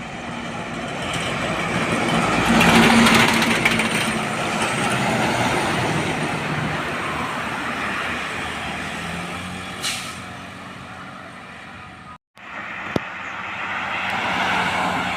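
Heavy diesel trucks passing close by on a road, their engine and tyre noise swelling and then fading. A second truck comes up near the end. A short, sharp hiss sounds about ten seconds in.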